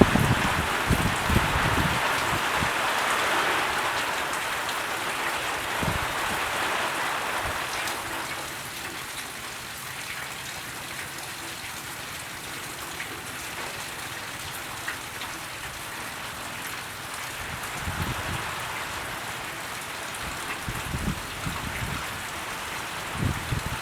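Steady hiss of rain, loudest in the first few seconds and easing after, with a few dull low thumps now and then.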